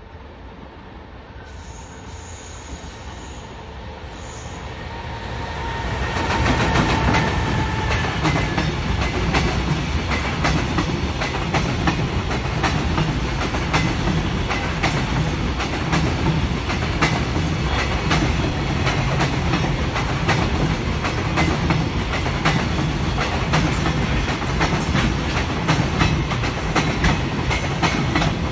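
Container freight train hauled by an EF210 electric locomotive approaching and passing close by. It grows louder over the first six seconds, then a long string of container flatcars rolls past with a steady rumble and a dense clickety-clack of wheels over the rail joints.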